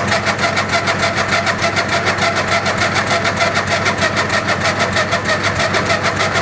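Craftsman lawn tractor engine being cranked over by its starter in rapid, even beats without catching, over a steady low engine hum.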